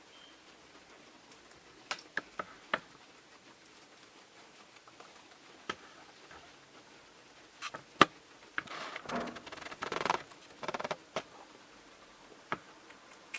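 Guinea pigs moving about in their enclosure: scattered light clicks and taps, the loudest about eight seconds in, and a stretch of rustling from about nine to eleven seconds in.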